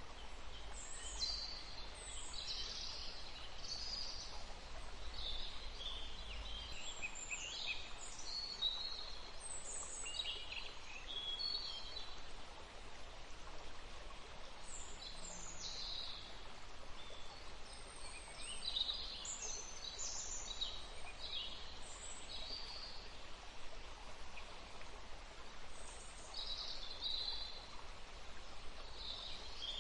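Songbirds chirping and singing in quick bursts of short, high notes over the steady rush of a forest stream.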